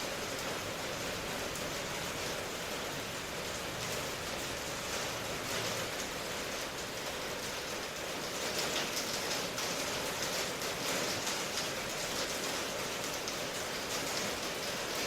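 Steady rainfall: a continuous hiss of rain with fine patter of drops hitting a surface, slightly heavier for a few seconds in the middle.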